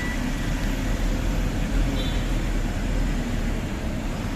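Tata 1512 truck's diesel engine and road noise while driving: a steady low rumble.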